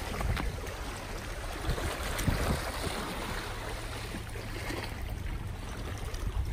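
Seawater lapping and sloshing at the shore, a steady wash of water noise over a low rumble.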